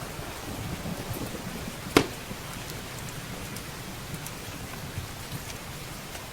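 Steady rain against windows and roof, mixed with the light crackling of a wood fire in a fireplace. One loud, sharp pop from the fire comes about two seconds in.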